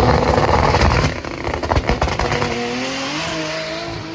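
A car engine accelerating hard at full throttle, loudest in the first second. About a second in there is a gear change, and the engine note then climbs again.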